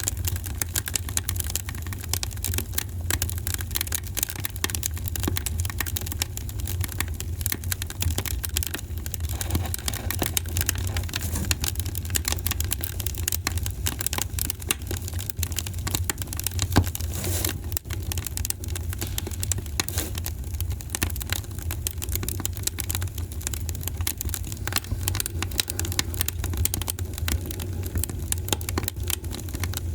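Wood fire crackling in a fireplace: many small irregular pops and snaps over a low steady rumble of burning, with one louder pop about seventeen seconds in.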